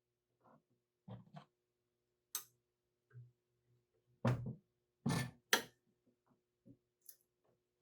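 Hand tools knocking and clicking against a Crosley water pump as it is taken apart: scattered single taps, the loudest three close together about four to six seconds in.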